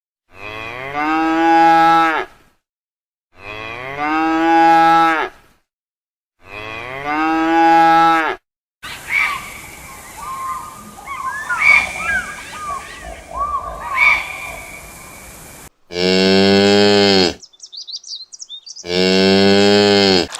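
Cows mooing: three long, drawn-out moos a second or so apart. Then comes a noisier stretch of short chirping calls, and near the end two more deep, loud moos.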